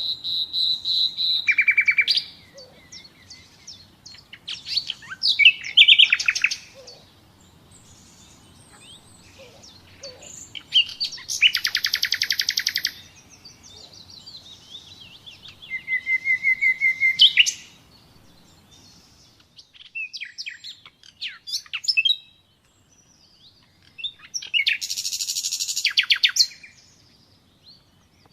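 Common nightingale singing: a string of short, varied phrases separated by pauses, built of fast repeated notes, high trills and harsh rattling passages.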